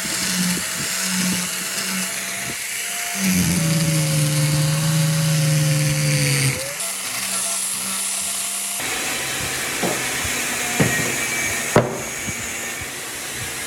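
Electric power tool running with a steady whine that sags lower in pitch for a few seconds, as under load. About nine seconds in it gives way to a steady hiss broken by a few sharp knocks.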